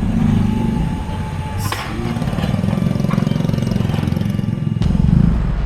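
Streetcar running by: a steady low rumble with a faint thin whine at first, and two sharp knocks, one near the start and one near the end.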